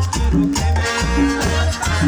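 Live Latin dance band playing an instrumental passage, with a steady bass pattern and brass and percussion.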